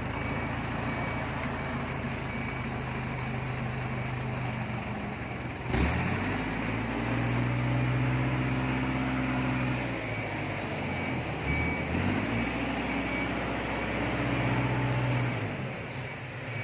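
A heavy vehicle's engine running, with a sharp clunk about six seconds in. After the clunk the engine revs up and down several times under load. A short high warning beep repeats throughout, like a reversing alarm.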